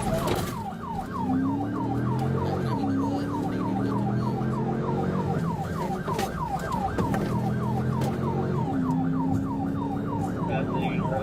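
Police siren on fast yelp, a falling whoop repeated about three to four times a second, over a vehicle engine accelerating that drops in pitch twice as it shifts up. A brief sharp knock right at the start.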